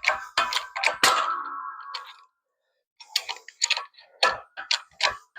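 Sharp metal clicks and ticks, with a creaking squeal for about the first two seconds, as a universal-joint cap is forced out of its driveshaft yoke under a pressing tool. There is a short pause, then the clicking goes on.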